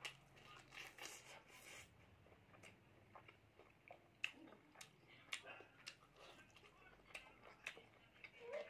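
Faint close-up eating sounds: biting into and chewing a piece of pork, with scattered wet mouth clicks and smacks, and fingers working rice on a steel plate near the end.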